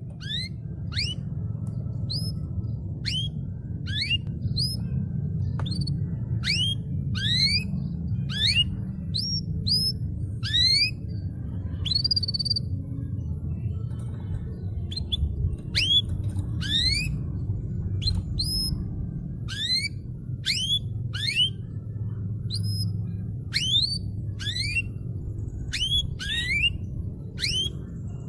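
Domestic canary singing: a long run of short, quickly rising whistled notes, one or two a second, over a steady low hum.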